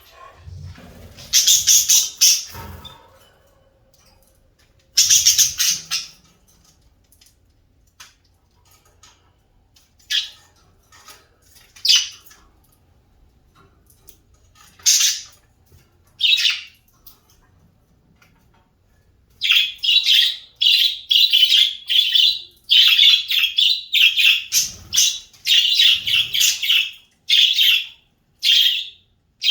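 Birds calling: two harsh squawks near the start, scattered single calls, then a fast run of chirps from about twenty seconds in. A few low thumps come with the first squawks, and another comes later.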